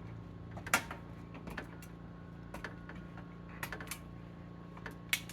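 Irregular light clicks and taps over a low steady hum, with the sharpest tick about a second in and another near the end.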